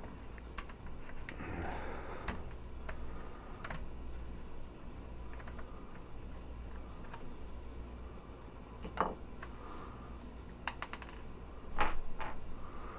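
Small scattered clicks and taps of hard plastic toy parts being handled and pried apart while a transforming robot figure is disassembled, with a couple of sharper clicks in the second half.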